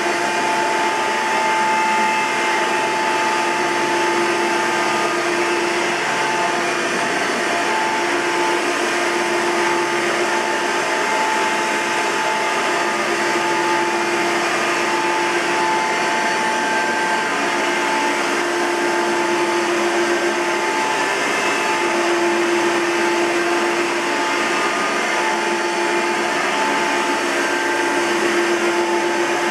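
1999 Hoover Soft & Light Elite upright vacuum cleaner running steadily, with a loud, steady whine that has a bit of a siren sort of sound. The whine comes from a worn bearing that, even freshly greased, the owner judges needs replacing.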